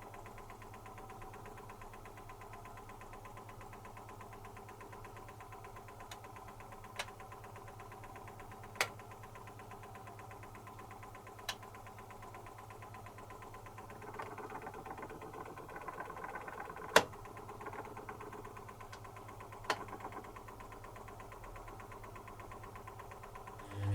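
Zanussi FC1000 compact washing machine running quietly: a low steady hum with half a dozen sharp clicks scattered through it and some faint rustling near the middle.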